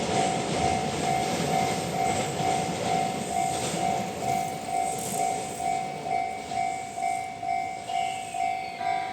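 Freight train wagons running past on jointed track, their rumble fading, while a level crossing warning bell rings steadily at about two dings a second.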